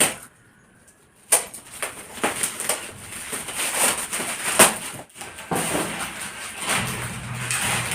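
Gift wrapping paper or plastic packaging crackling and tearing as a present is unwrapped by hand. It starts about a second in, after a short quiet moment, with a run of irregular sharp crinkles.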